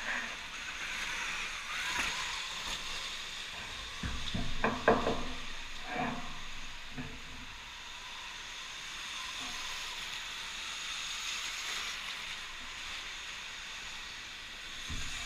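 Electric dirt bikes riding on an indoor track: a steady hissing whine from the motors and drive, with a few knocks about four to six seconds in.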